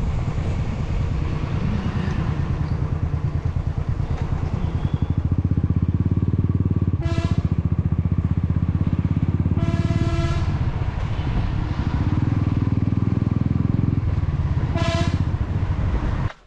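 Motorcycle engine running steadily under load, with a vehicle horn sounding three times: a short beep, a longer one about three seconds later, and another short beep near the end.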